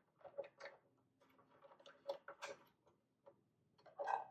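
Faint, irregular small clicks and ticks of a screw being turned to fix a bird feeder's perch in place, with a slightly louder cluster about four seconds in.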